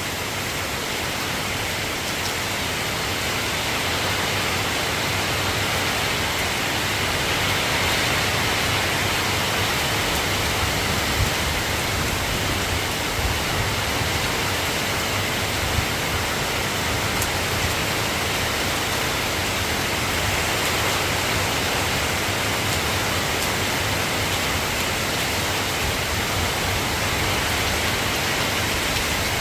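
Steady rain falling, a dense even hiss that grows slightly louder over the first several seconds, with a few faint drop ticks.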